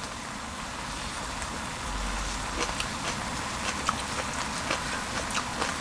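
Meat and scallions sizzling on a griddle: a steady hiss with scattered small pops and spits.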